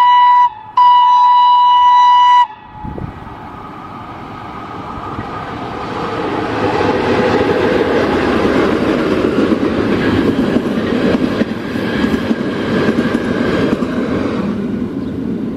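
An E656 electric locomotive's horn blows twice at one steady pitch: the tail of one blast, then a longer blast lasting nearly two seconds. Then the locomotive and its string of carriages pass by. The rush and clatter of wheels on rail builds, is loudest for several seconds as the train goes past, and fades near the end.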